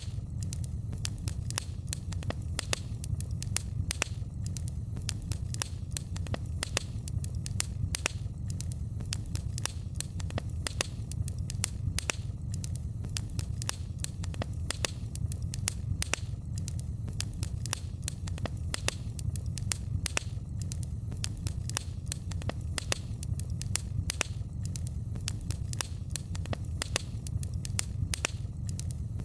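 Wood fire burning in a fireplace, crackling continuously with frequent sharp pops and snaps over a steady low rumble.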